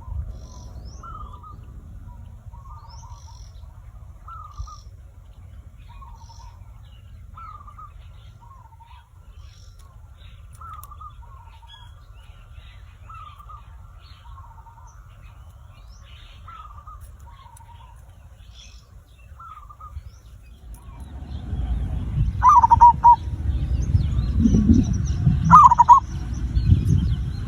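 Zebra dove (perkutut) cooing: short, curved coos repeated roughly once a second, with faint high chirps of other small birds behind. About three-quarters of the way through, a loud low rumble comes in and the coos become louder.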